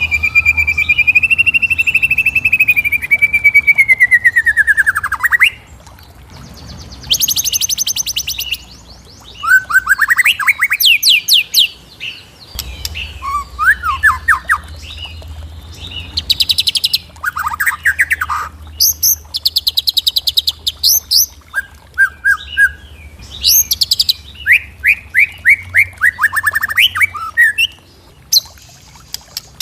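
Birds singing and calling, one kind of call after another: a long high whistled note sliding down over about five seconds, then quick trills, chirps and short rising and falling phrases.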